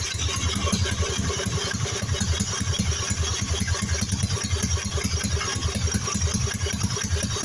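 Briggs & Stratton small engine of a racing riding mower running steadily with an even, rapid low pulsing, on its freshly cleaned and rebuilt carburetor.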